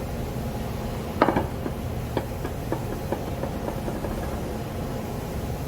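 A sharp knock of an axe striking firewood, then a string of lighter wooden knocks coming faster and fainter as a split piece bounces to rest, over a steady low rumble.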